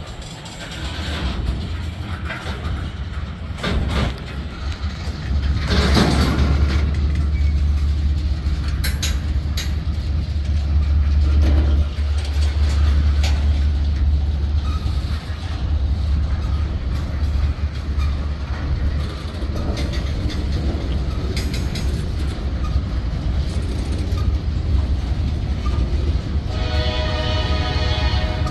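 Freight cars of a Norfolk Southern manifest train rolling past: a steady heavy rumble of covered hoppers and tank cars on the rails, with scattered clanks and rattles. A short pitched tone sounds near the end.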